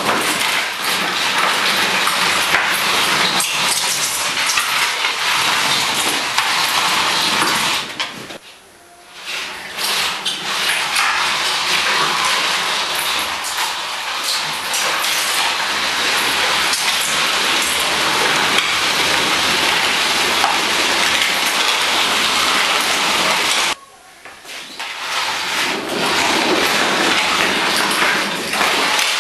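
Metal parts and tools clattering and knocking over a dense, steady hiss. The sound drops away briefly twice.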